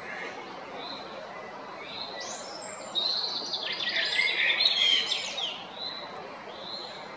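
Male common blackbird singing: one loud song phrase of whistles and rapid twittering begins about three seconds in and lasts some two seconds. Fainter calls of other birds sound around it.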